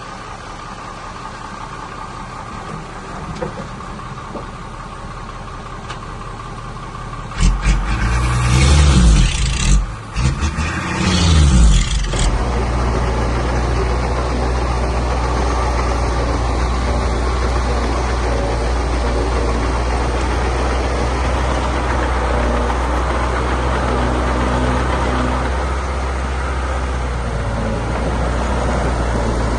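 Heavy diesel machinery engine running steadily. About seven seconds in it gets much louder and revs up and down for a few seconds, then settles into a louder steady run.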